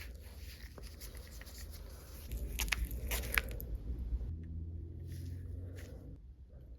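Surfboard filler paste being mixed and worked with a spreader, a wet scraping and squishing with a few sharp clicks in the middle.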